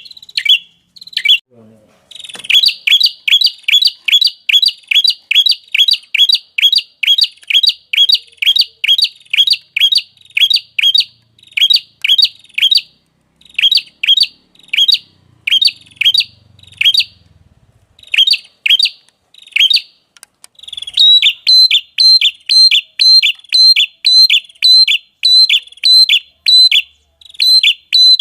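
A small songbird repeating one sharp, quickly falling chirp over and over, about two to three notes a second, with short breaks about a second in and near the middle, then a steadier, brighter run of notes from about two-thirds of the way through.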